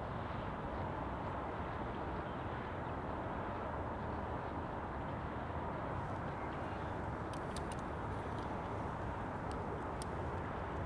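Steady outdoor background hiss and rumble, even throughout, with a few faint short ticks about seven seconds in and again near ten seconds.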